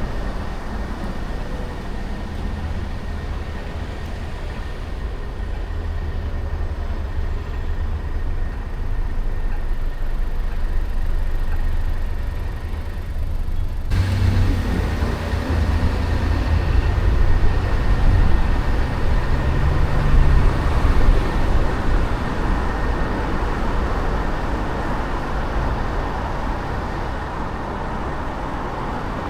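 Car driving in city traffic: a steady low rumble of engine and road noise. About halfway through, the sound suddenly turns fuller and brighter, with more traffic noise on top, and it swells a few times before settling.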